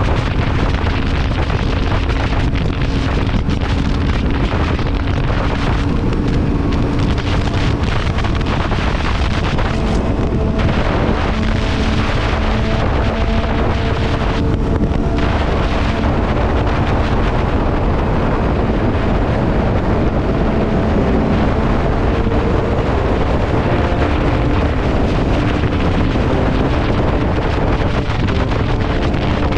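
Heavy wind buffeting on the microphone over a running motorcycle engine while riding at speed.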